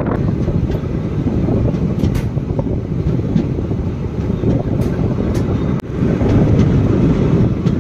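Passenger express train coach running at speed, heard from its open doorway: a steady low rumble of wheels on rail mixed with rushing air, with a few sharp clicks. It gets slightly louder about six seconds in.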